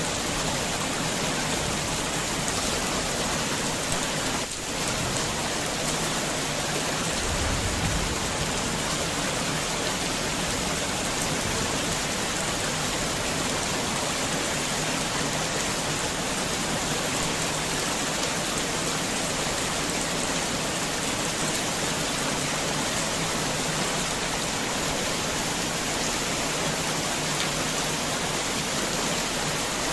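Heavy rain falling steadily, a dense even hiss of drops on surfaces, with a brief low rumble about a quarter of the way in.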